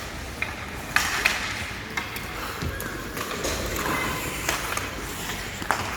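Youth ice hockey game in play: sharp clacks of sticks and puck, two loud ones about a second in and a few more spread through, over a steady rink background.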